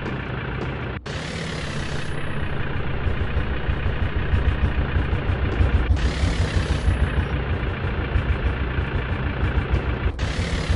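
Tractor engine running with a low, rapid throb, briefly cut off about a second in and again near the end.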